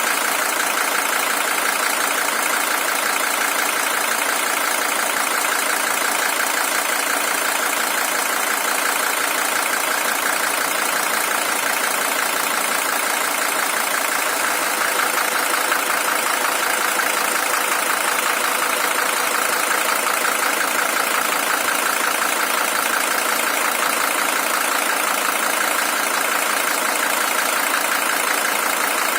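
Mercedes-Benz W123 300TD's OM617 five-cylinder diesel engine idling steadily. It is the original engine, with 620,000 km on it.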